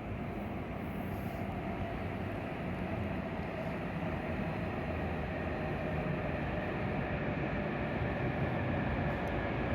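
E7 series Hokuriku Shinkansen train coming in to the station, a steady rumble with a faint whine that grows slowly louder.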